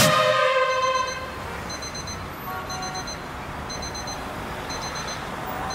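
Electronic beeper sounding groups of three short high beeps about once a second, as a digital alarm clock does, over a steady hiss. A music chord fades out during the first second.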